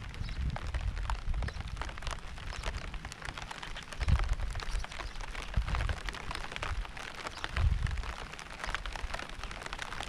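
Steady rain, with many separate drops ticking irregularly. Low rumbles swell about four seconds in and again near eight seconds.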